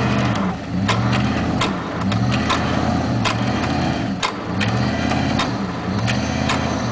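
Vehicle engine revving up and falling back in quick repeated surges, with sharp clacks and knocks scattered over it, while a mud-stuck Jeep Grand Cherokee is pulled free on a line.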